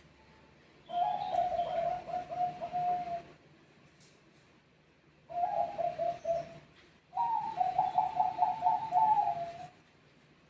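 Zebra doves (Bangkok perkutut) singing in three bouts of rapid, staccato cooing notes, the last bout pitched higher, as birds answer one another.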